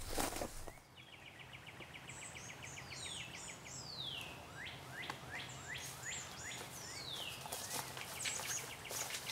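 Wild birds singing: a fast trill of short repeated notes, then several high whistled notes that slide steeply down in pitch. Near the end come a few footsteps on dry leaf litter.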